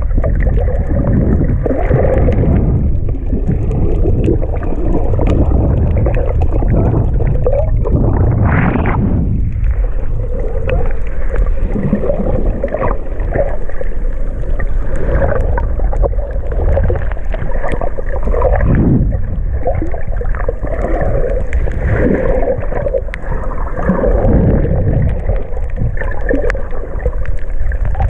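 Underwater sound picked up through a GoPro's waterproof housing: a steady deep rumble with wavering mid-pitched tones, and one whine that rises and falls about eight seconds in. Its source is not identified.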